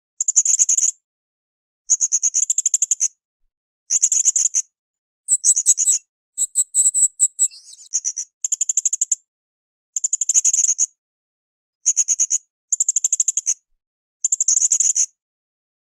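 Blue-crowned hanging parrot (srindit) calling: short bursts of rapid, high-pitched chattering notes, repeated roughly every second and a half. A shriller run of clearer notes comes in about five seconds in.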